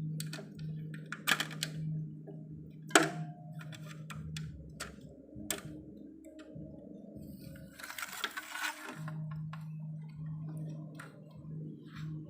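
Hands and tools handling an opened CRT television chassis: scattered clicks and knocks, a sharper knock about three seconds in and a short hiss near the end, over a steady low hum that drops out in the middle.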